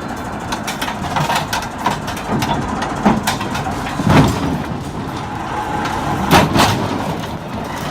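Heavy vehicle running, with repeated clanks and knocks and two louder thumps about four and six and a half seconds in.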